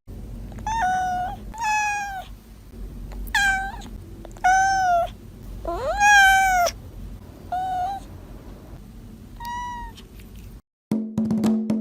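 A domestic cat meowing repeatedly, about seven separate meows, one of them longer and rising in pitch midway through.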